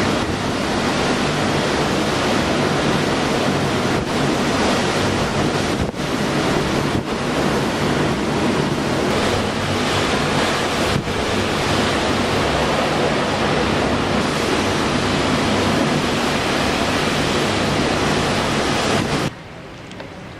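Hurricane wind blasting against the microphone in a loud, steady rush of noise, which drops off suddenly about a second before the end.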